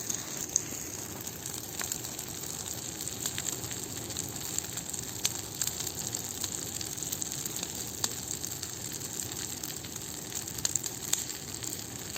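Large bonfire burning with a steady hiss and scattered sharp crackles and pops, a few louder pops standing out.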